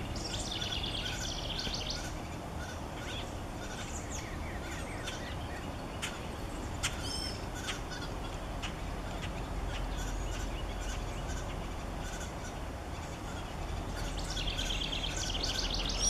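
Songbird calls: a rapid chattering series of high notes at the start and again near the end, with scattered single chirps in between.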